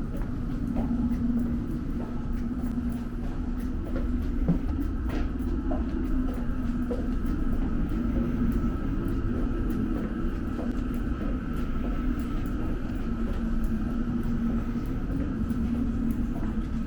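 London Underground Metropolitan line train running, heard from inside the carriage: a steady low rumble with a constant hum and scattered faint clicks and rattles.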